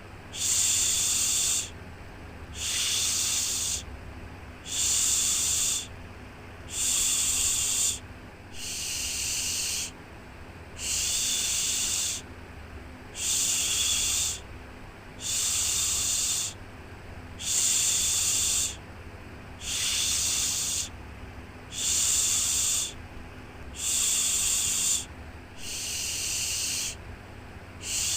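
A soothing "shhh" shushing sound for a baby, repeated in a steady rhythm: a hissing shush lasting just over a second, then a short pause, about once every two seconds. A faint low hum runs underneath.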